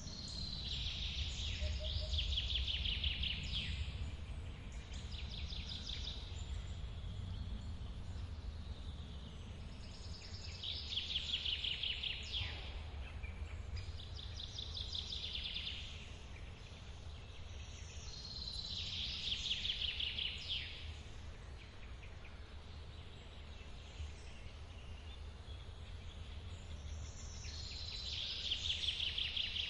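Steady low rush of a forest waterfall. Over it, a songbird repeats a high trilled phrase that drops a little in pitch, about every eight seconds, with shorter calls in between.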